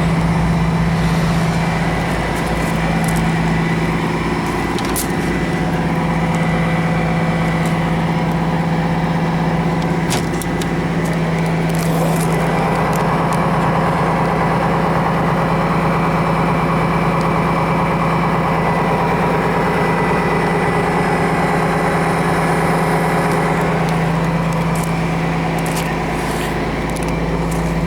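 Cummins ISM turbo diesel engine of a Blue Bird LTC-40 coach idling steadily, with a few light clicks.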